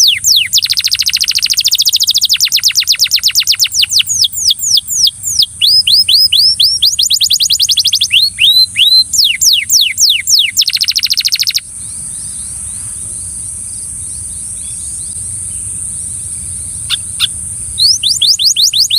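A Belgian canary singing rapid trills of repeated downward-sweeping notes. The song stops about twelve seconds in, leaving a steady high hiss, then a couple of short chirps and the trills start again near the end.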